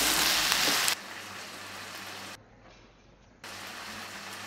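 Onions and tomatoes sizzling loudly as they fry in a steel pan, cutting off abruptly about a second in; a much fainter steady hiss follows.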